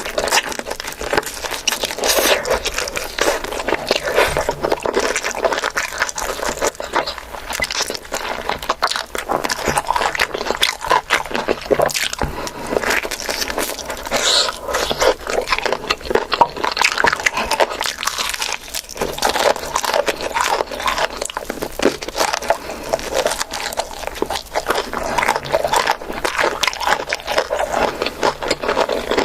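A person chewing and eating food close to the microphone: a continuous stream of small mouth clicks and chewing noises.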